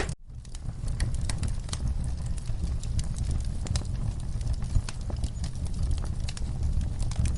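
Wood fire burning in a fireplace: a steady low rumble of flames with frequent irregular sharp crackles and pops. The sound drops out for a split second at the very start.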